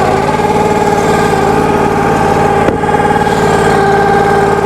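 Log splitter's small engine running steadily, with a steady tonal hum over it. A single short knock comes a little past the middle.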